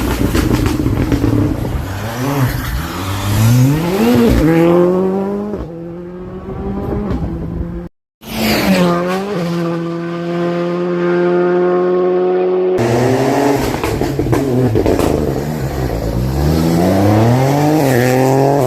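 Rally cars at full throttle on a special stage: engine notes climbing in pitch and falling back again and again as the cars shift up through the gears and brake. Partway through it cuts to a car holding one steady engine note for several seconds before the revving resumes.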